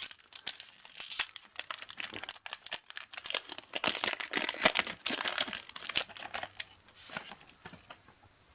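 Wrapper of a Magic: The Gathering card pack being torn open and crinkled by hand, a busy crackling that stops near the end.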